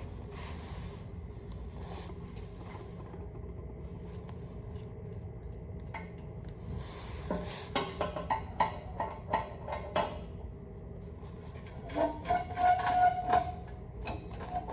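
Metal clinks and knocks from hand tools working a bolted bracket loose on a truck. They come in two bursts of sharp hits, the second with a short ringing tone, over a steady low hum.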